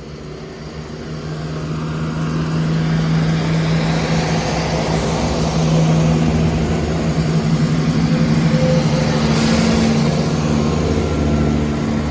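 Class 170 Turbostar diesel multiple unit's underfloor diesel engines running as the train moves off, growing louder over the first few seconds and then holding a steady low engine note with a hiss above it.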